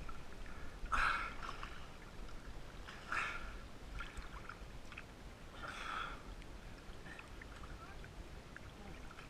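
Water splashing three times in short bursts, about a second, three seconds and six seconds in, over a low steady background of moving water.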